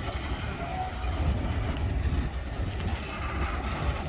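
Cars of a BNSF mixed freight train rolling past at a grade crossing: a steady rumble of steel wheels on rail.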